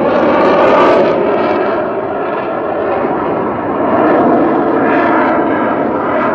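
F-22 Raptor's twin turbofan jet engines roaring during its flying display, continuous and loud, easing off a little about two seconds in and swelling again about four seconds in.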